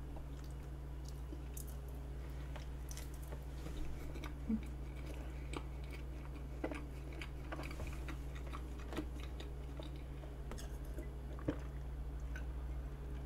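Soft, close-miked chewing of a mouthful of vanilla pound cake with whipped cream: faint wet mouth sounds and scattered small clicks over a steady low hum. Near the end, a sip from a glass.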